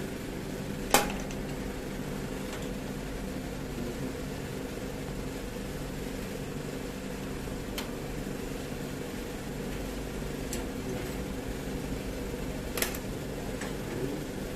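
Air conditioner unit running with a steady hum. A sharp click comes about a second in, and a few fainter clicks come later.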